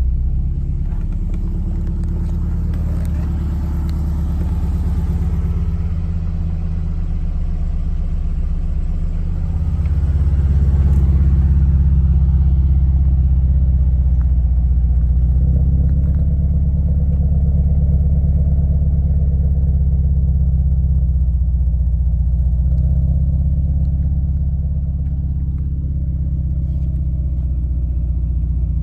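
JDM-swapped Subaru flat-four engine in a 1998 Impreza running steadily with a low rumble, getting louder about ten seconds in.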